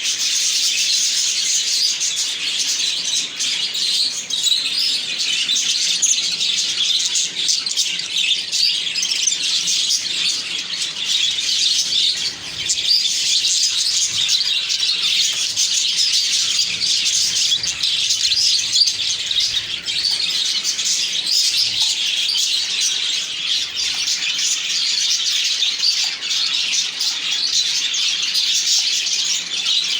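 A flock of budgerigars chattering and chirping continuously, many birds calling over one another without a pause.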